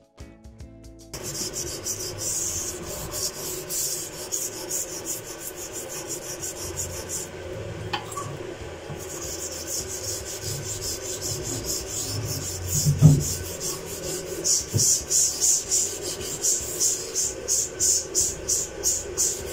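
Quick, rhythmic rubbing strokes against a surface, pausing briefly about a third of the way through and getting faster and more regular towards the end, with one dull thump about two-thirds in.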